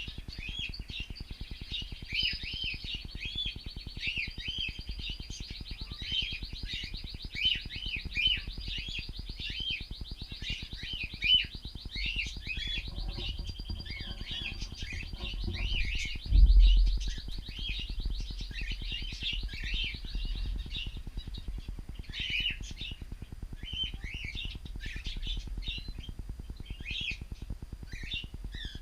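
Cockatiels chirping over and over in short rising-and-falling calls, with a steady high-pitched tone running underneath for the first half. A dull low thump about 16 seconds in is the loudest sound.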